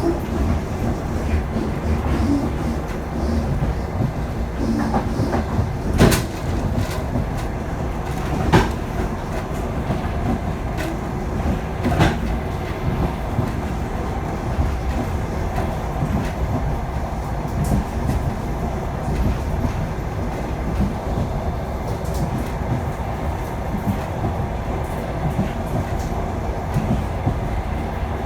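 Passenger train rolling along the track with a steady low rumble of wheels on rails, and a few sharp clacks as the wheels cross rail joints.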